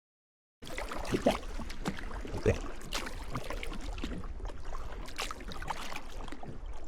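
Water splashing and sloshing, with scattered sharp splashes and a steady low rumble underneath.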